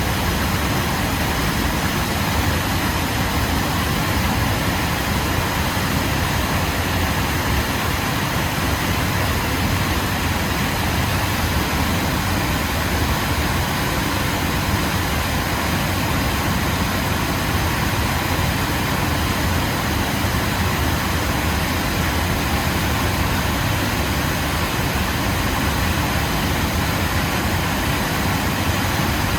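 Waterfall: an unbroken, steady rush of falling water, heaviest in its deep rumble.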